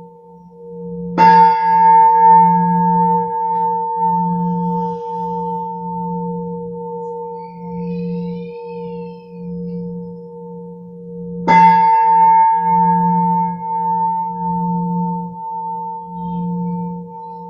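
Singing bowls ringing: a low bowl hums with a slow, wavering pulse under steady higher tones. A bowl is struck twice, about a second in and again some ten seconds later, each strike ringing out and slowly fading.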